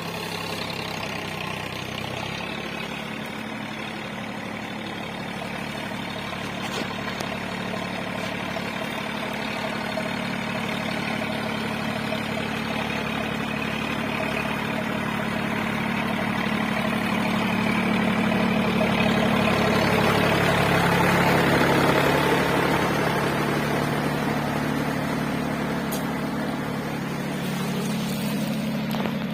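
John Deere mini tractor's engine running at a steady speed, growing gradually louder to a peak about two-thirds of the way through, then easing off slightly.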